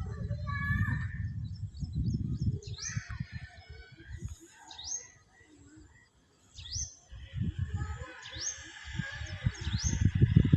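Birds chirping: short, sharp calls that sweep steeply in pitch, repeated every second or so. Irregular low rumbling comes and goes underneath, loudest near the start and again in the last few seconds.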